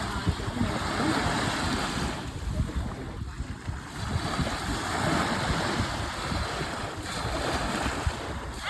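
Wind buffeting the microphone over lapping open water, a steady rough rush with gusty low rumbling.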